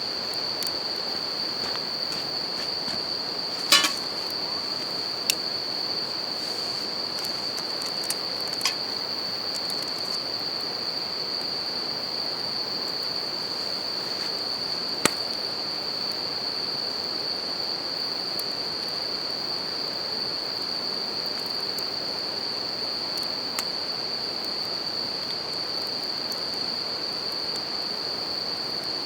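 Bell crickets singing a steady high ring over the even rush of a river, with a few sharp crackles from a wood campfire, the loudest about four seconds and fifteen seconds in.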